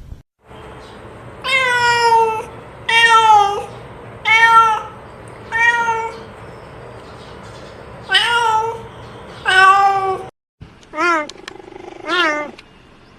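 An animal calling: six drawn-out cries, each rising then falling in pitch. After a brief break, three shorter calls follow, each with a quick rise and fall.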